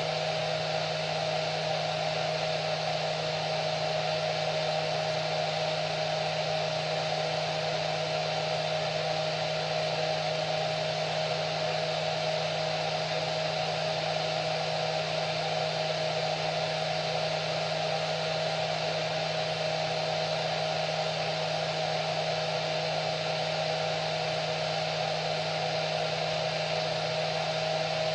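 Hair dryer running steadily, an even rushing of air with a constant motor whine.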